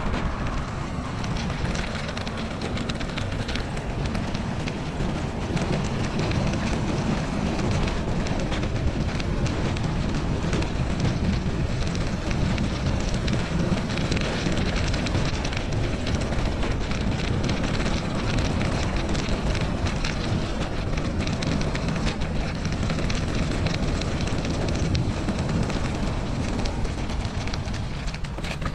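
Wind buffeting the microphone of a camera riding along on a moving bicycle: a steady, rumbling rush with no break.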